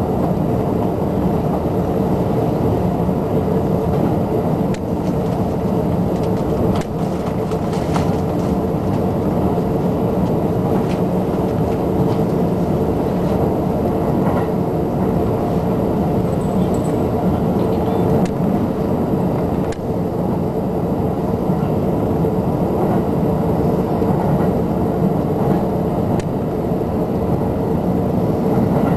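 JR Shonan-Shinjuku Line electric commuter train running at speed, heard from inside the passenger car: a steady rumble of wheels on the rails with a steady hum.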